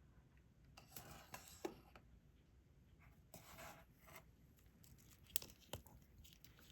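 Faint scraping and rustling with a few light clicks from diamond-painting work: a stylus picking up resin drills and pressing them onto the sticky canvas.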